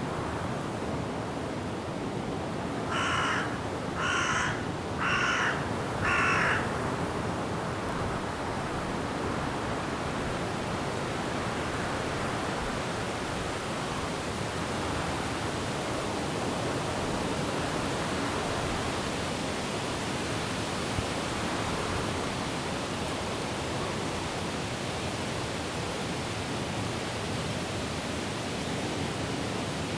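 Steady wind blowing through forest trees, with a bird calling four times, about a second apart, a few seconds in.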